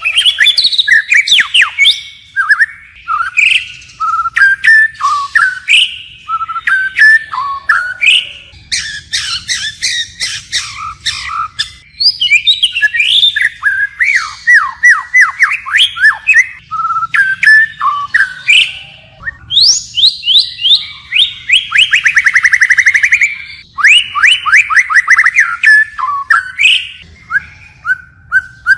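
White-rumped shama singing a long, varied song of rich whistles, fast note runs and sharp clicks, switching from phrase to phrase without pause, with a rapid trill about three-quarters of the way through.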